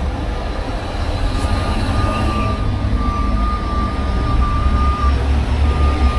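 Heavy truck engine running with a steady low rumble, joined about a second in by a steady high whine that drops out briefly near five seconds and comes back.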